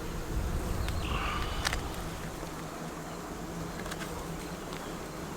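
Honeybee colony buzzing steadily in an opened hive, with a few sharp clicks and a low rumble in the first two seconds and another click about four seconds in.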